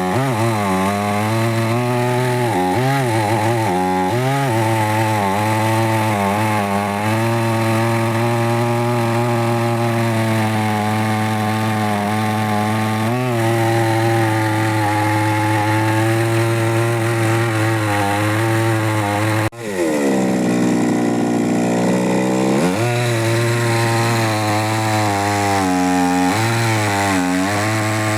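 Chainsaw running at high speed, its pitch sagging again and again as it cuts into wood and then recovering. About twenty seconds in, the sound breaks off for an instant, then the engine comes back low and climbs to full speed over a few seconds.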